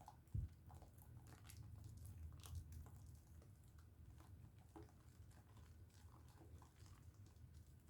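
Faint wet squishing and crackling of a Dove soap bar being lathered in hands, with a soft low thump about half a second in.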